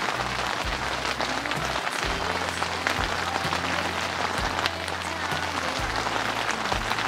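Heavy rain pattering on a tent, a dense crackling hiss, with background music and its low bass notes underneath.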